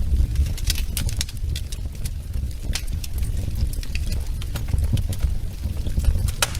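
Wood fire burning in a fireplace: a steady low rumble of flame with scattered sharp crackles and pops from the burning logs, and one louder pop near the end.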